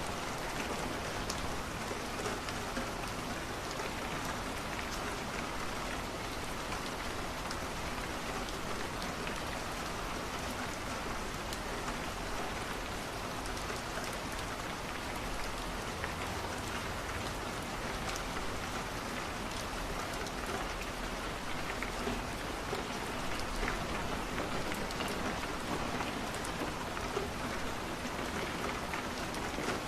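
Steady rain on a window, mixed with a crackling wood fire, with many small sharp ticks scattered through the even hiss.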